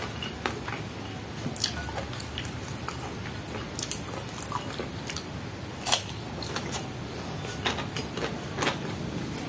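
A person chewing and biting food close to the microphone, with scattered short crunches and clicks, the loudest about six seconds in.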